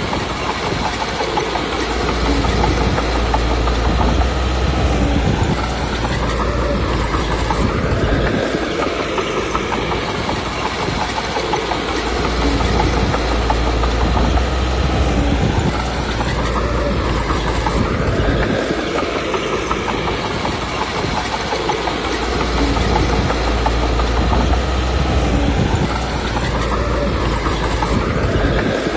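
Komatsu D21P crawler bulldozer's diesel engine working continuously. It swells and its pitch rises and falls in repeated surges about every eight to nine seconds as it takes load, with a steady mechanical clatter.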